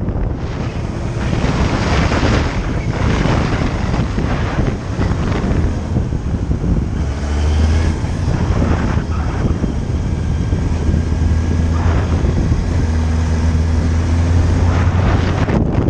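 Heavy wind buffeting on the microphone during a motorcycle ride, with the motorcycle's engine running underneath and shifting pitch about halfway through.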